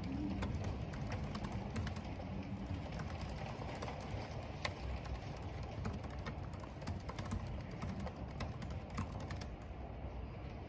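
Computer keyboard typing: irregular, quick key clicks over a steady low rush of wind and rain.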